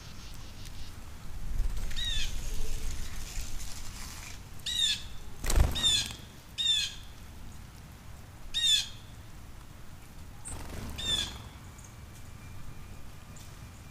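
Wild birds calling with short, repeated chirps, about six spread over the stretch, with a quick flutter of wings about five and a half seconds in.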